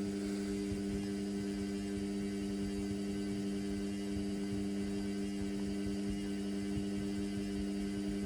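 Indesit washing machine running with a steady, even hum of a few pitched tones and no change in pitch or level.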